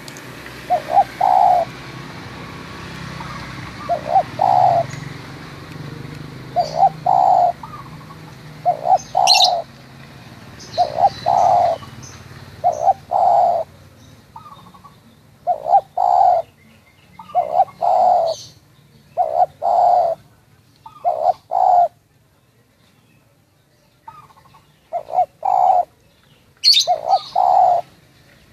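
Spotted dove (tekukur) cooing over and over, a short phrase of two or three notes, the last one the longest, about every one and a half to two seconds. Other small birds chirp faintly and high-pitched, and a low rumble runs underneath for the first half.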